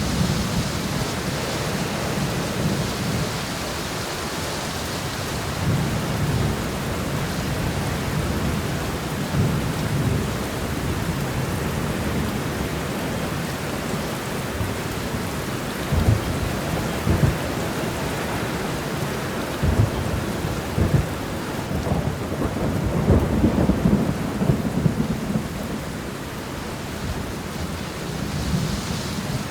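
Rain shower falling steadily, an even hiss. Bouts of deep rumbling and a few low thumps come through in the second half.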